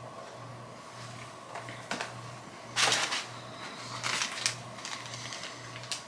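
Packaging being handled and opened by hand: a few short bursts of rustling and crinkling, the loudest about three seconds in. A faint low hum pulses about twice a second underneath.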